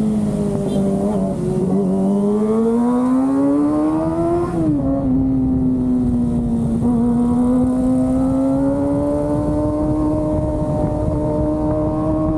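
Kawasaki ZX-25R's 249 cc inline-four engine running under way. Revs climb for a couple of seconds and drop sharply about four and a half seconds in at a gear change. They then rise slowly and steadily.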